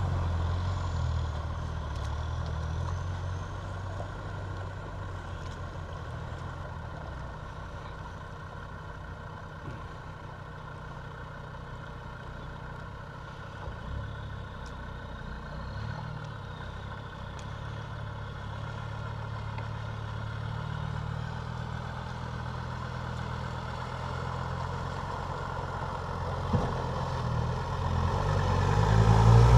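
Land Rover Defender's diesel engine running as it drives through a river ford, loud at first, quieter through the middle and growing steadily louder near the end as it comes close, over the steady rush of the river.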